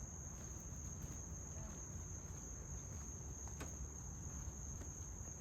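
Insect chorus: a steady, unbroken high-pitched trill, with a faint click about three and a half seconds in.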